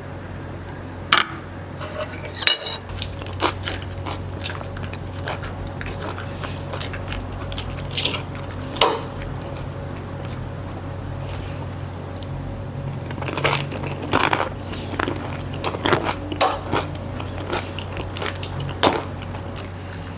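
Crunching and clinking of cutlery against dishes, in scattered sharp clicks: a ringing clink or two about two seconds in, and a busier run of them in the second half. A steady low hum lies underneath.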